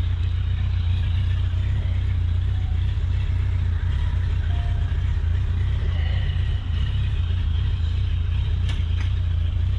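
Kawasaki motorcycle under way at speed: a steady low wind rumble buffeting the microphone over the engine running.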